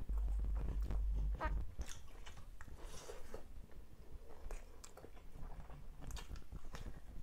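Close-miked chewing and biting of a mouthful of rice and fried tilapia, with scattered crunches and wet mouth clicks, along with fingers picking through the rice. A low rumble sits under the first couple of seconds.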